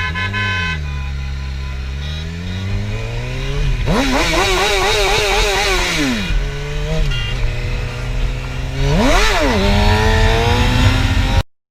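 Sport bike's engine, a 2007 Suzuki GSX-R 750 inline-four with an Akrapovic exhaust, being revved and ridden. Its pitch climbs sharply about four seconds in, falls away about two seconds later, then climbs and settles again. The sound cuts off suddenly near the end.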